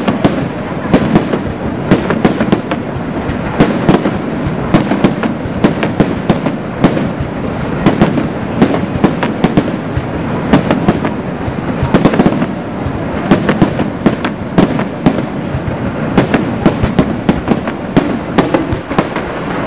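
Aerial fireworks display going off continuously: a dense run of sharp bangs, several a second, over steady crackling.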